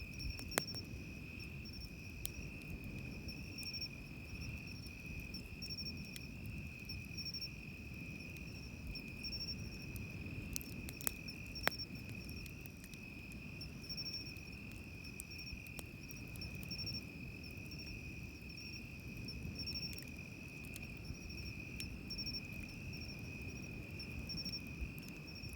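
Autumn insects chirping: one keeps up a steady high trill while another chirps in quick repeated pulses at a higher pitch. Under them is a low rumble of surf, with a few sharp pops of a campfire crackling, the loudest about eleven seconds in.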